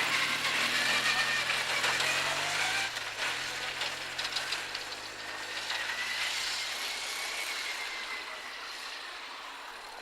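Motorcycle engine running. Its note falls over the first three seconds, rises again briefly around six to seven seconds, and the sound fades steadily toward the end.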